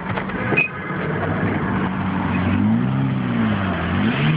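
Lamborghini engine revving: a low, steady engine note that rises and falls in pitch in the second half, then starts climbing again near the end.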